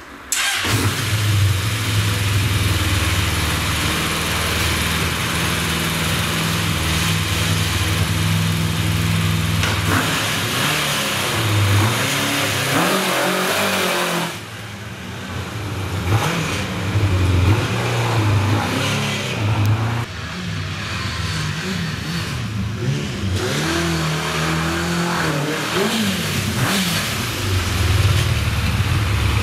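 Honda CB750 café racer's inline-four engine running and being revved as the bike is ridden, its pitch rising and falling with the throttle. The engine is running again on a freshly replaced ignition coil. The sound cuts in suddenly just after the start and drops briefly about halfway through.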